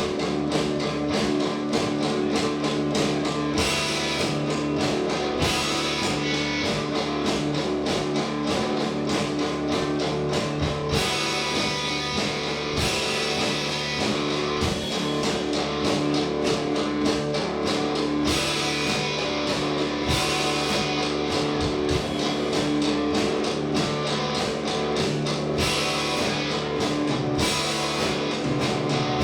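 Live indie rock band playing: guitars with drum kit.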